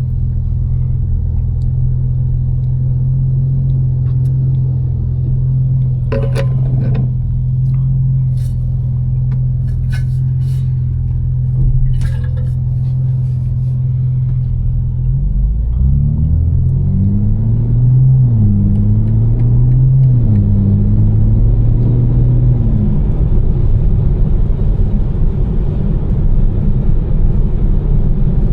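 BMW M4's twin-turbo straight-six running at a steady pitch, with a few sharp clicks, then pulling away about halfway through, its pitch climbing in steps through two upshifts. Tyre and road noise from the wet road builds as speed rises.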